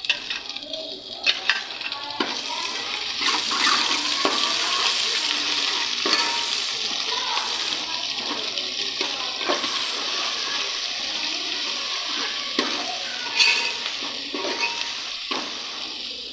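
Ginger-garlic paste sizzling in hot oil with browned onions in a metal pot, stirred with a steel spoon that clinks and scrapes against the pot. The sizzle swells about two seconds in and stays steady, with scattered spoon clicks.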